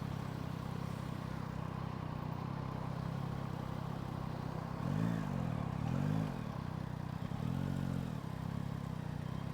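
Motorcycle engine idling steadily, heard through a helmet-mounted microphone. About halfway through, the revs rise and fall briefly twice, then swell once more before settling back to idle.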